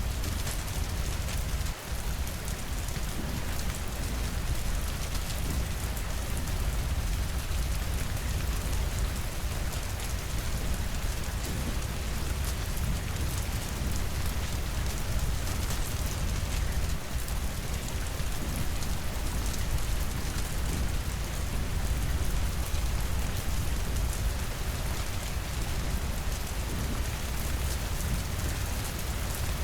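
Steady rainfall: an even, unbroken hiss with a deep rumble underneath.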